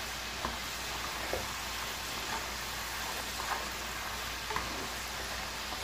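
Diced potatoes deep-frying in hot oil in a wok, a steady sizzle with a few light clicks as they are stirred with a plastic slotted spoon. The potatoes are nearly cooked and turning golden.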